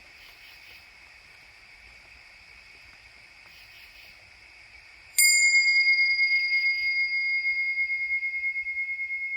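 A steady, high chorus of insects, then about five seconds in a bell is struck once. It rings on in a clear high tone that slowly fades.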